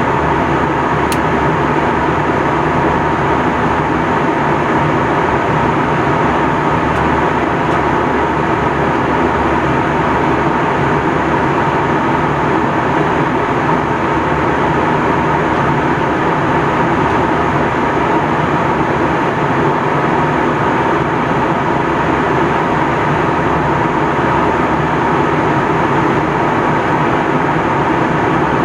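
Steady cabin noise aboard an Airbus A321 in flight: an even rush of engine and airflow noise with a steady hum running through it, unchanging throughout.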